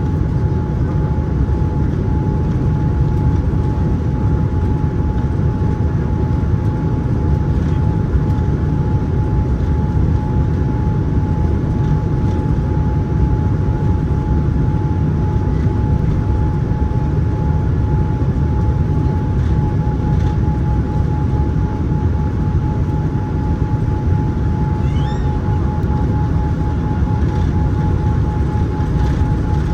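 Cabin noise inside a Boeing 787-9 airliner in flight: a steady low rumble of engines and airflow with a constant high whine, unchanging throughout.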